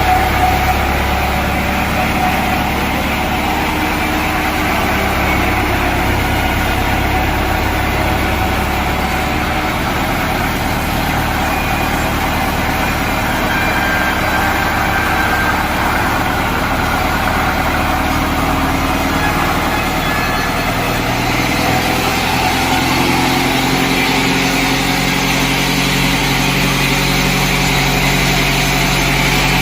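Sawmill machinery running with a steady engine-like drone, its low tones shifting to a different pitch about two-thirds of the way through.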